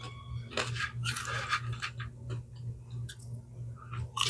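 Eating sounds: a short ringing clink of tableware at the start, then a few bursts of chewing and mouth noise while food is eaten.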